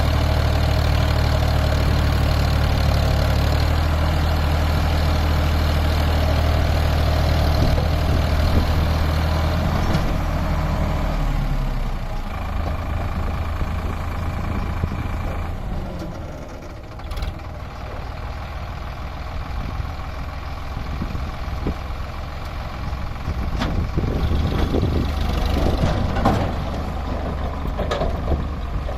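Sonalika tractor's diesel engine running steadily at raised revs, then dropping back to a quieter, lower note about twelve seconds in. Near the end there is a series of knocks and clanks.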